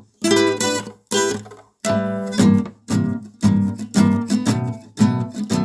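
Acoustic guitar strumming chords between sung verses, with no voice. There are a few separate strums with short gaps at first, then steady strumming from about two seconds in.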